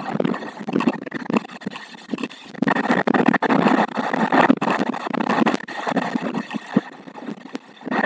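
Storm wind and rain on the nest camera's microphone, a rough noise that surges and eases every second or two, with scattered sharp clicks.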